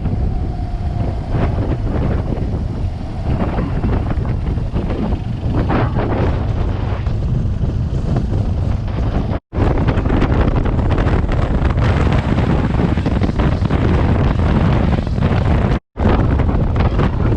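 Heavy wind rushing and buffeting over the microphone, strongest in the low end, broken twice by a brief total dropout.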